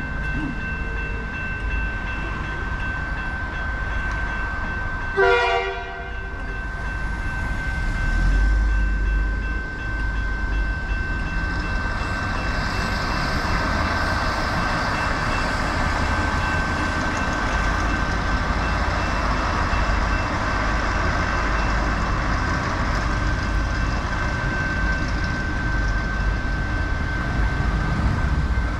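A train passing, its rushing rumble building from about twelve seconds in, with a short horn-like blast about five seconds in.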